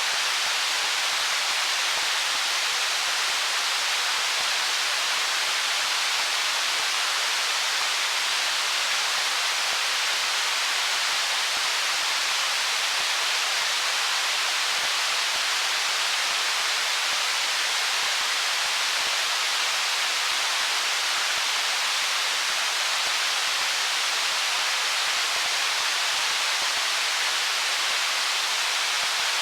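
Stream water flowing over stones: a steady, even, hissing rush that stays unchanged throughout, with little low rumble.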